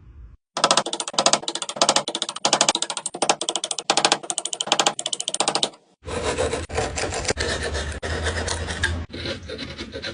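Rapid back-and-forth strokes of a hand tool rasping or sawing on wood, about four strokes a second. After a short break about six seconds in, a denser scraping with a low hum underneath.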